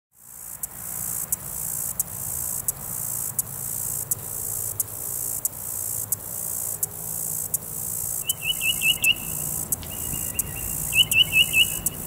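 Katydid buzzing: a steady high-pitched buzz broken by brief pauses about every 0.7 seconds. From about eight seconds in, a small songbird joins with quick runs of about four chirped notes.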